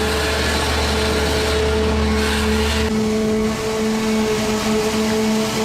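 Heavy machinery of a large backhoe dipper dredger running steadily, a continuous mechanical drone with held tones. A deep low hum underneath cuts out about three seconds in.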